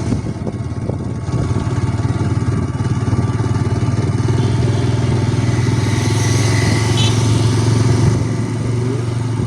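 Motorcycle engine running steadily while riding, heard from on the bike, a little louder from about a second in.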